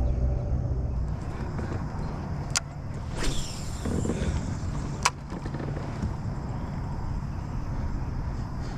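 A steady low rumble with two sharp clicks about two and a half seconds apart and a brief swish between them.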